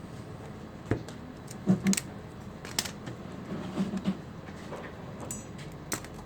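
Scattered light clicks and knocks, about seven in all at uneven intervals, like small hard objects being handled and set down, over a steady low background hum.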